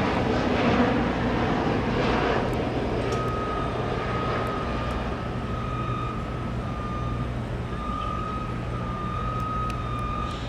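Construction machinery diesel engine running steadily, with a vehicle's backup alarm starting to beep about three seconds in; a rushing noise fills the first two seconds.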